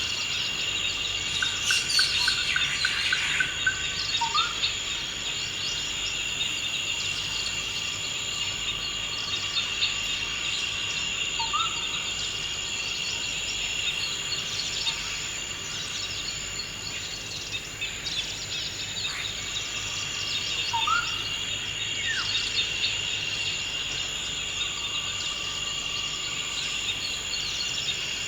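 Forest ambience: insects, crickets among them, keep up a steady high-pitched drone while birds call over it. There is a flurry of chirps a couple of seconds in, then a short rising whistle three times, several seconds apart.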